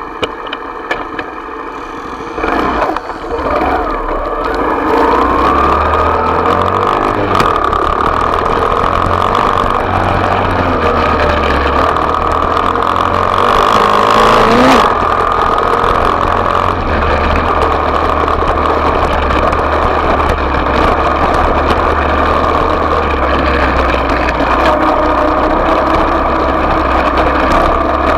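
Small off-road motorcycle engine running steadily, with a few brief revs. It gets louder over the first few seconds, then holds a steady note.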